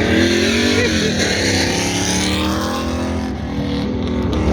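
A race-prepared pickup truck's engine revving up and easing off as it is driven hard around an autocross course, with a high hiss over it for the first two seconds or so.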